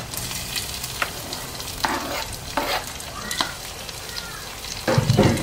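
Onions, chicken and chopped tomato sizzling in a non-stick frying pan while a wooden spoon stirs and scrapes through them in short strokes. A louder thump comes near the end.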